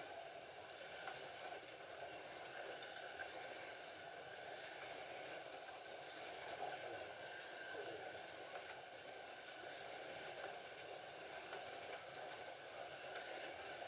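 Scalextric slot cars lapping the track: the steady whir of their small electric motors, with a few faint short high beeps.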